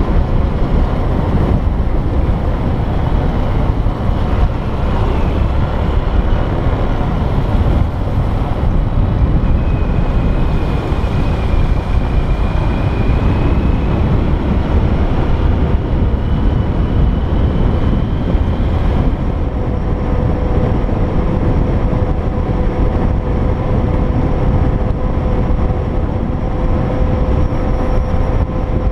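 An engine running steadily while on the move, under heavy wind rumble on the microphone; a faint steady hum joins about twenty seconds in.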